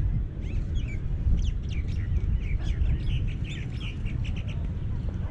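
Small birds chirping in many quick, high calls, over a steady low rumble.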